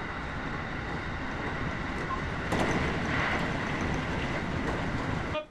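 Train running on the rails: a steady rolling rumble with a faint high whine. It gets louder about two and a half seconds in, and it starts and stops abruptly.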